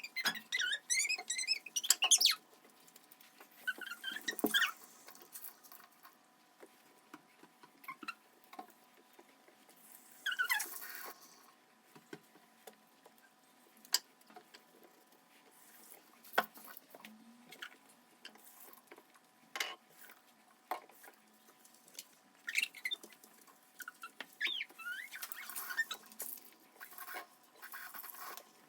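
Household handling sounds: scattered light clicks and taps, a couple of brief swishes, and short high squeaks at the start and again near the end.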